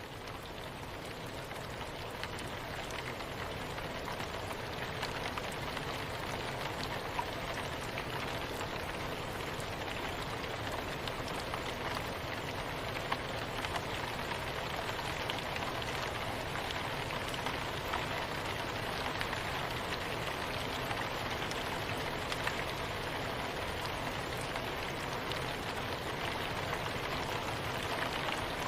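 Soft, steady rain: a dense even hiss of falling drops with scattered sharper drop ticks, swelling up over the first few seconds and then holding steady.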